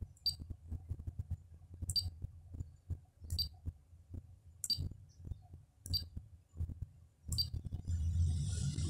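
Six short, sharp clicks, roughly one every second and a half, from the touch keys of a Pioneer AVH-P6380BT car DVD head unit as its source menu is worked, over a faint low rumble. Near the end a steady hiss and hum start as the unit switches to the disc drive and begins reading.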